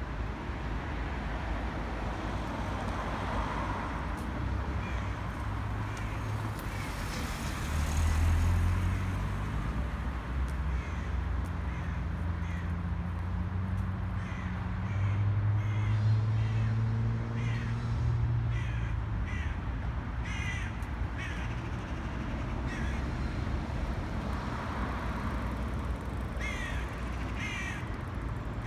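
Crows cawing in repeated runs of short harsh calls, busiest near the end, over a steady low traffic rumble. A passing vehicle swells the rumble about a third of the way in and again around the middle.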